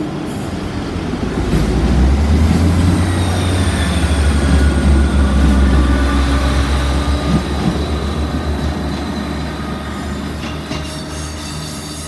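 Great Western Railway Class 158 diesel multiple unit passing, its diesel engines droning deep and loud a couple of seconds in, then slowly fading as it moves away. Thin high-pitched wheel squeal sounds over the drone.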